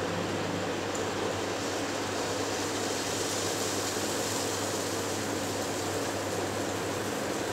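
Dhuska batter frying in hot oil in a pan: a steady sizzle over a low hum, the hiss growing a little brighter around the middle.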